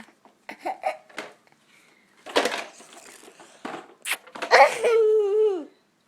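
A toddler laughing and making silly vocal sounds in short bursts. About four and a half seconds in comes one long drawn-out cry, the loudest part, which drops in pitch at the end.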